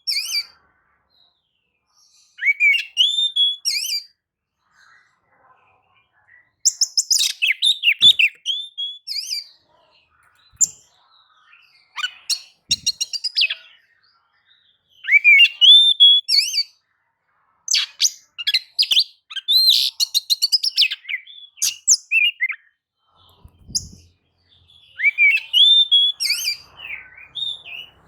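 Oriental magpie-robin (kacer) singing loudly: a series of short song phrases of rapid, varied whistles, trills and chirps, separated by pauses of a second or two.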